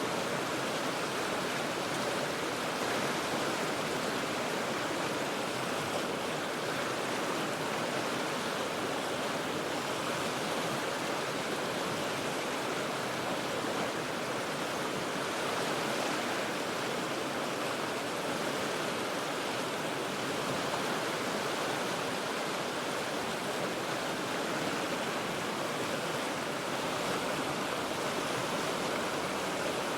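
River water rushing over rocks: a steady, unbroken rush with no single splashes standing out.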